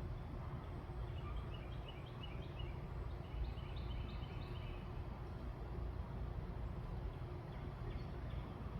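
Backyard ambience: a small bird chirping a quick run of short high notes for a few seconds, over a steady low rumble.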